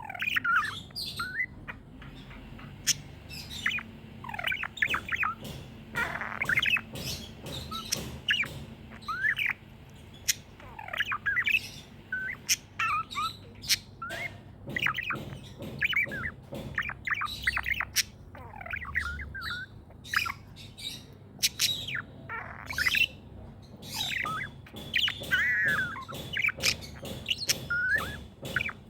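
Budgerigars chirping and chattering in quick, warbling bursts, with sharp clicks scattered between the calls.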